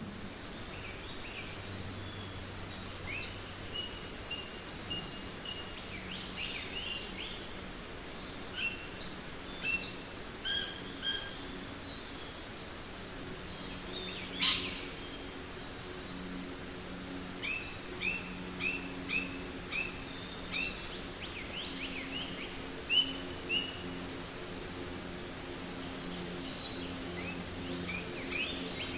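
Jungle ambience: several birds calling and chirping in short high notes over a steady background hiss. There is one sharp, loud call about halfway through, and a few seconds later a run of evenly repeated calls at about three a second.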